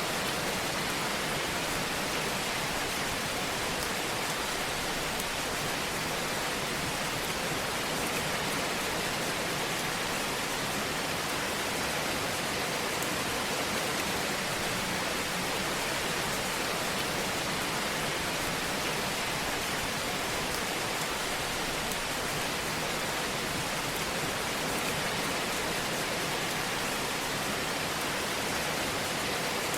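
Fire burning in a fireplace, crackling softly over a steady hiss.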